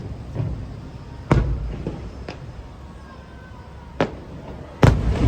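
Aerial fireworks shells bursting: a sharp bang about a second in, a fainter pop, then two more loud bangs near the end, the loudest ones followed by a low rumble.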